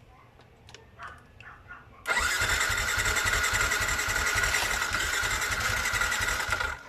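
Electric starter cranking a Yamaha Sniper 135's hard-starting 135 cc four-stroke single, beginning suddenly about two seconds in. A steady starter whine runs over a fast low pulsing, and it cuts off abruptly near the end.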